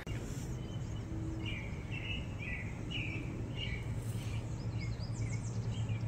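Birds chirping in short, repeated calls over a steady low outdoor background noise.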